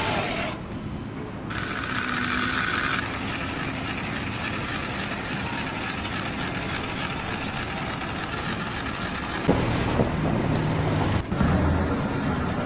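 Engine and machinery noise at a construction site, steady between abrupt changes in character a few times, as one clip cuts to the next.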